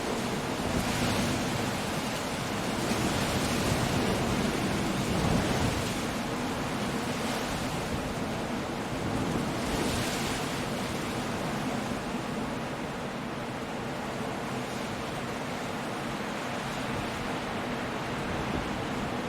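Stormy sea on a rocky coast: a steady rush of surf and wind, with waves swelling louder a few seconds in and again about ten seconds in.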